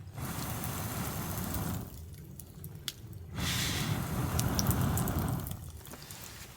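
Water being poured into a vessel, two pours of about two seconds each with a short pause between.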